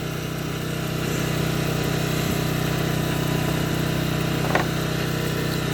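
A steady low hum of an engine running at idle, growing slightly louder about a second in, with one faint brief sound near the end.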